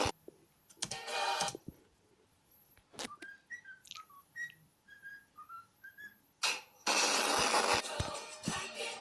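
A bird singing a short whistled tune: a quick run of chirps stepping up and down in pitch, about three seconds long in the middle. Louder hissing, noisy bursts come shortly after the start and again for the last two seconds or so.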